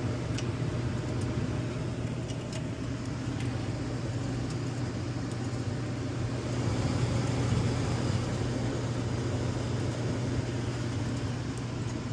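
Gas furnace blower running steadily with a low hum, and a few light clicks over it.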